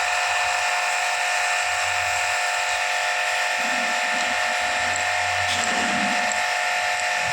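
A small electric motor running steadily with a whine, joined by a low hum that comes and goes about every three seconds.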